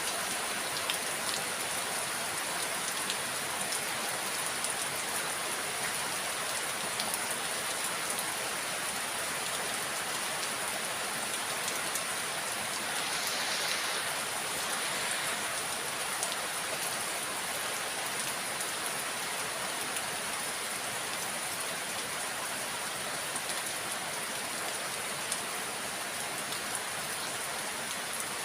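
Steady rain falling, with the patter of individual drops hitting surfaces; the hiss swells briefly about halfway through.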